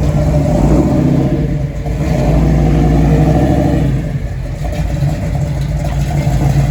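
Car engines rumbling through loud aftermarket exhausts at low speed, easing off briefly about two seconds in and again around four seconds in.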